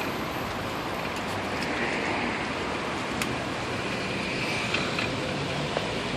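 Steady rushing street noise heard from a moving bicycle, with a few faint clicks about halfway through and near the end.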